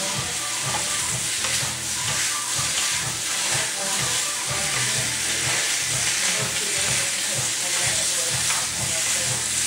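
Chicken pieces and peppers stir-frying in hot oil: a steady loud sizzle that picks up right at the start, with stirring in the pan.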